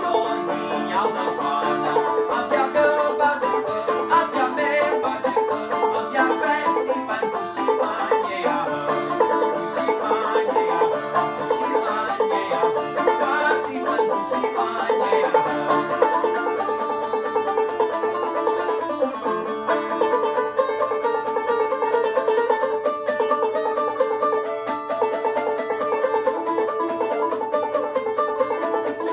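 Clawhammer banjo playing a brisk, unbroken tune of quick plucked notes over a steady held drone note.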